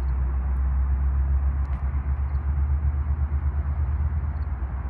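Low steady rumble of a distant Metrolink commuter train pulling away from the station.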